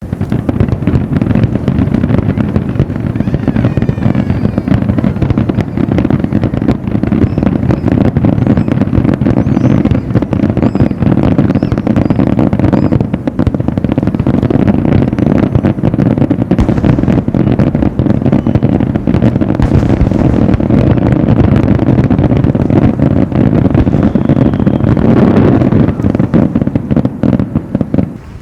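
Fireworks display heard live: a dense, unbroken barrage of bangs and crackling over a heavy low rumble.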